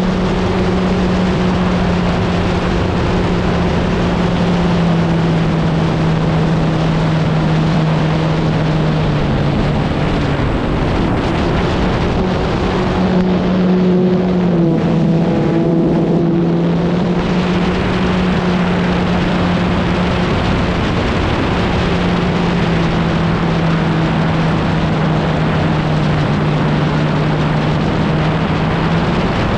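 Electric motor and propeller of an E-flite Extra 300 RC plane running in flight, a steady hum whose pitch steps down and back up a few times as the throttle changes, over a loud rush of wind.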